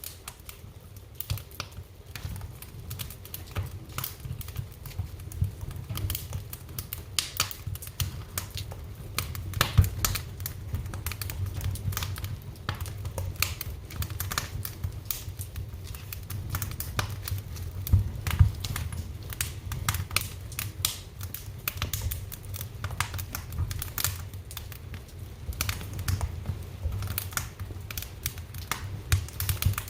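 Wood fire crackling in a fireplace: irregular sharp pops and snaps over a low steady rumble of the flames, with a couple of louder pops about ten and eighteen seconds in.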